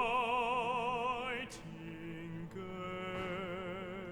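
Operatic singer holding a long note with wide vibrato over instrumental accompaniment; the note ends about a second and a half in, and softer sustained notes carry on.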